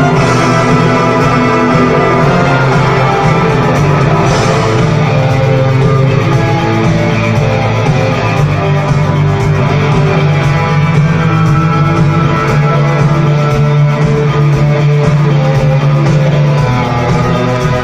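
Rock band and symphony orchestra playing live together, guitar over steady sustained chords, with no singing.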